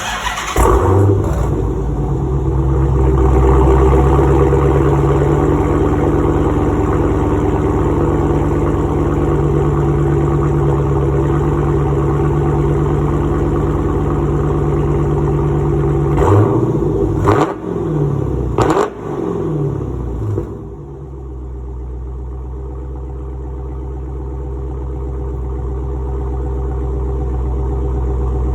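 Exhaust of a 6.4-litre Hemi V8 in a 2016 Dodge Challenger R/T Scat Pack with the mid muffler deleted, running loud and steady under load. Past the middle, a few sharp knocks come with quick drops and rises in engine speed. The exhaust then settles into a quieter, deeper steady run that slowly grows louder.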